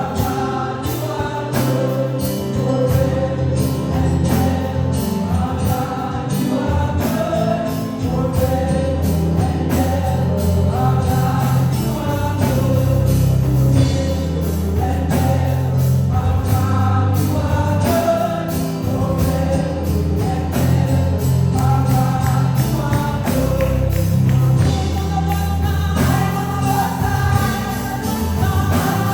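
Live gospel worship music: voices singing together over a band, with a strong bass line and a steady drum beat throughout.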